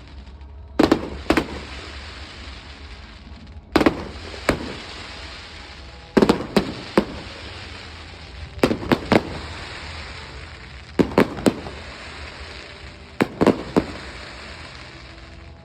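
Aerial fireworks bursting: sharp bangs in clusters of two or three every couple of seconds, with a crackling hiss between the bursts.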